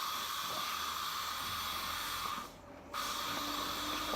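Aerosol can of shaving foam spraying in a long steady hiss. It breaks off for about half a second past the middle, then starts again.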